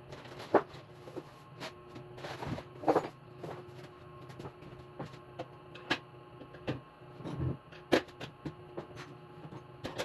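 Irregular light knocks and clicks, a few seconds apart, over a steady low hum.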